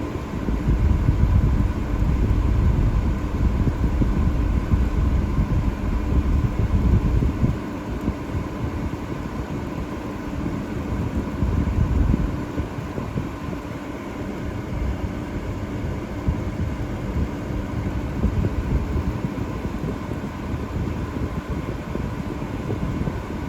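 Subaru Sambar kei truck's engine running steadily, with a few steady tones over an uneven low rumble that is louder in the first seven seconds and again briefly about twelve seconds in.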